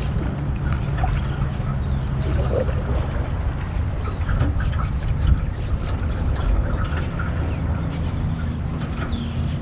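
Small boat cruising slowly on a pond under a trolling motor: a steady low hum, with faint short bird calls and small splashes over it.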